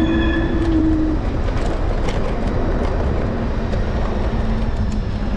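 Electric scooter ride over city pavement: steady road rumble and wind noise with frequent rattling clicks over bumps, and a steady whine during about the first second.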